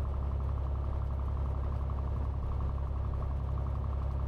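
Cessna 182T's six-cylinder Lycoming IO-540 engine running steadily at low taxi power, a constant low drone with a faint fine ticking above it.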